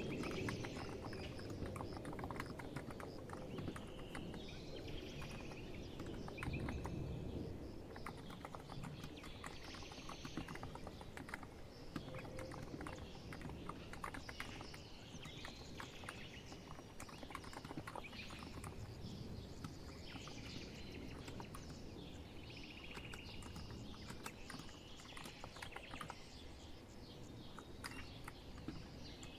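Typing on a COX Empress electro-capacitive keyboard: a steady run of soft, quick keystroke clicks. Birds chirp intermittently in the background.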